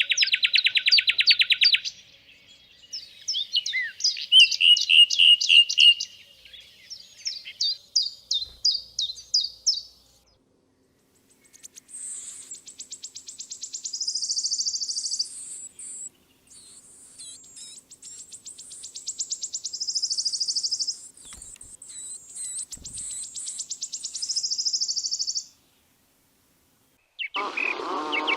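Songbirds singing: phrases of rapid trills and chirped notes, then a long stretch of higher, buzzy trills. The song cuts off sharply near the end, and a lower, wavering sound starts just after.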